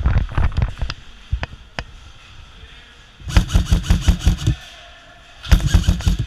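Airsoft guns firing: a quick string of shots at the start, two single shots, then two automatic bursts of rapid shots, about a second long halfway through and a shorter one near the end.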